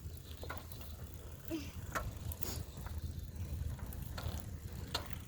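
Bicycle drivetrain clicking and ticking as the bike is pedaled uphill, over a steady low rumble.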